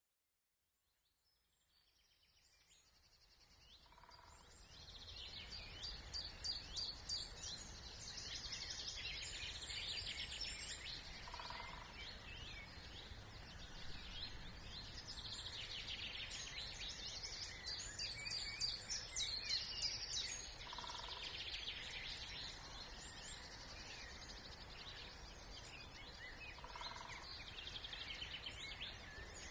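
Several songbirds singing at once in a spring chorus, dense rapid trills and chatter fading in over the first few seconds. A short lower note recurs about four times, spaced several seconds apart, over a steady low rumble of background noise.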